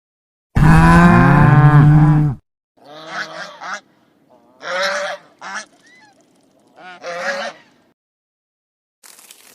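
Animal calls: one loud, long, wavering call lasting nearly two seconds, then four shorter, quieter calls spaced a second or two apart.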